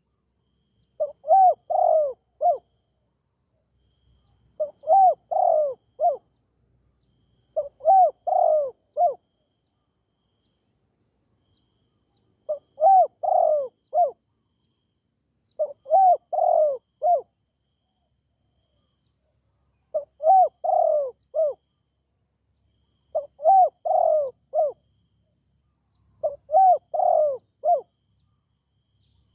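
Spotted dove cooing: eight phrases, each of three or four quick rising-and-falling coos lasting about a second and a half, repeated every three seconds or so with a longer pause near the middle.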